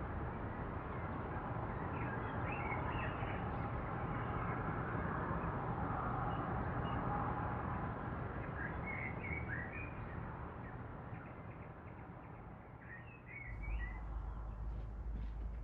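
Small birds chirping in three short bursts over a steady outdoor background noise. Near the end the sound changes to a low steady hum with a few faint clicks.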